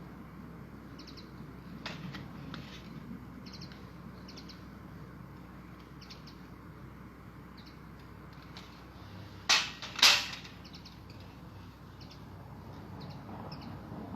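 Small birds chirping in short high calls scattered through, over a faint low background hum, with two loud sharp snaps about half a second apart around ten seconds in.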